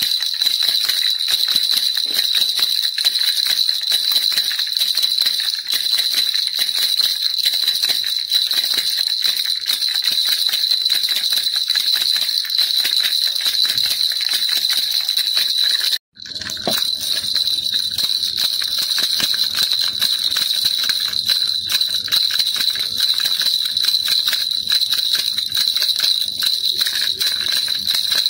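Baby rattle shaken continuously, a dense jingling rattle, with a brief drop-out about sixteen seconds in before it carries on.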